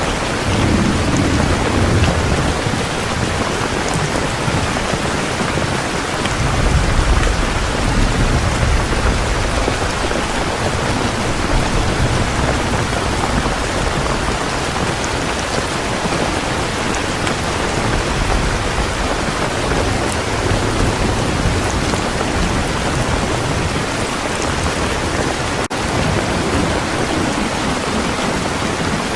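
Heavy rain falling steadily, with low rolls of thunder rumbling under it, strongest from about six to ten seconds in.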